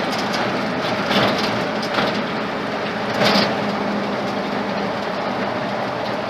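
Ford flathead engine running steadily as the old truck drives along, with road noise and a few short knocks or rattles about one, two and three seconds in.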